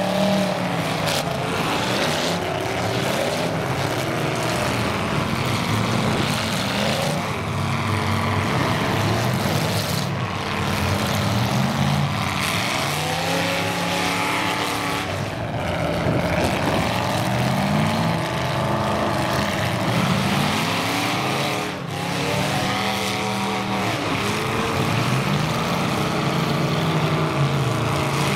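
Several full-size demolition derby cars' engines revving at once, their pitches rising and falling and overlapping.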